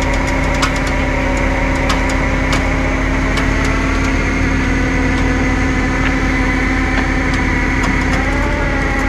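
Vehicle engine running steadily at a constant speed, with scattered light clicks over it; the pitch wavers slightly near the end.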